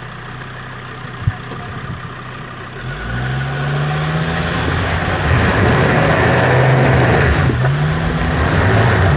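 Off-road 4x4's engine idling, with one sharp knock about a second in. About three seconds in it is revved hard and held at high revs that rise and dip as it climbs a rough obstacle, with a loud, gritty rushing noise over it.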